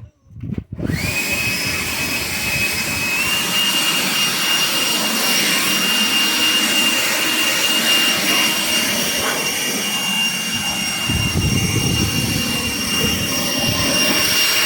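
Leaf blower running flat out: a steady high whine over a rush of air. It comes in about a second in and steps up a little in pitch about two seconds later.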